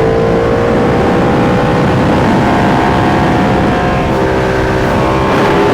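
Motorcycle engine running under load at road speed, its pitch climbing slowly and dropping at a gear shift about four seconds in, over a heavy low rumble of wind and road noise.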